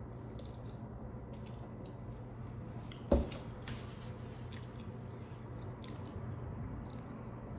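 Close-up mouth sounds of someone chewing a cheesesteak sandwich, with small wet clicks and smacks scattered through, one louder short sound about three seconds in, and a steady low hum underneath.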